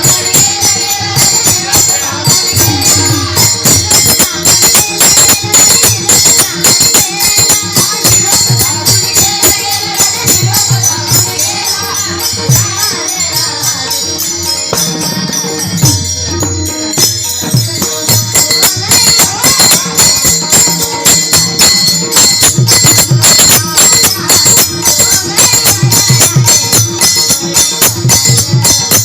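Marathi devotional gaulan music from a bhajan group: fast jingling hand cymbals and drum beats keep a steady rhythm, with ringing cymbal tones on top.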